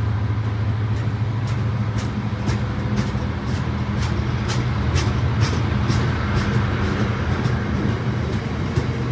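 A train running through a station: a steady low engine drone, with wheels clicking over rail joints about twice a second in the first half.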